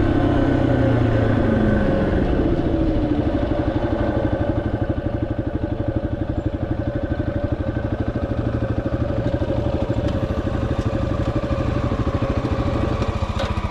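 Yamaha XT250's single-cylinder four-stroke engine running under way. Its pitch falls over the first couple of seconds as the bike slows, then holds steady.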